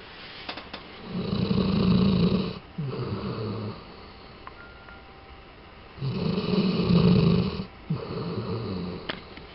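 Sleeping Labrador retriever snoring: two loud snores about five seconds apart, each followed by a shorter, softer breath.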